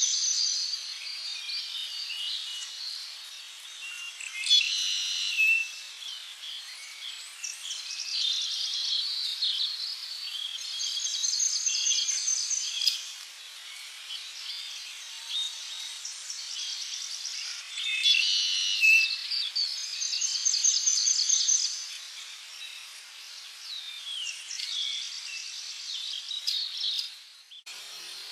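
Several tropical birds singing and chirping together: high trills and whistled calls that swell in bursts every few seconds. Just before the end the birdsong cuts off abruptly and a different sound takes over.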